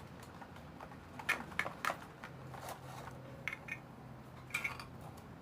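Slime being stirred and squeezed by hand: irregular soft clicks and squelches, bunched a little after the first second and again near the middle and end, over a steady low hum.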